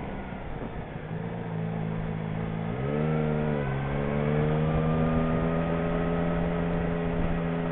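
Motorcycle engine running at low road speed, its pitch rising briefly about three seconds in, then dropping back lower and slowly climbing again.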